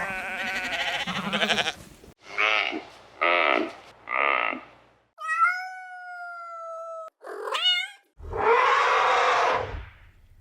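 A string of separate animal calls, cut one after another with short silent gaps. A dense call is followed by three short calls about twice a second, then one long clear call sliding slightly down in pitch, a short rising call, and a longer, rougher call near the end.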